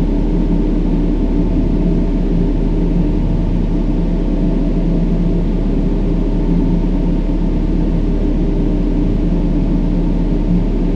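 Steady brown noise: an even, deep rumbling hiss weighted toward the low end, with faint steady low tones under it.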